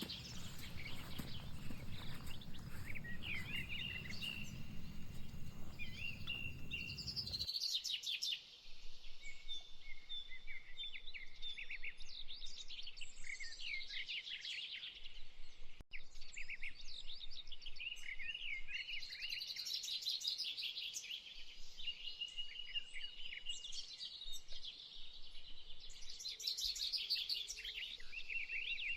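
Small birds chirping and twittering in quick, repeated phrases of high notes. A low rumble underneath stops abruptly about seven seconds in.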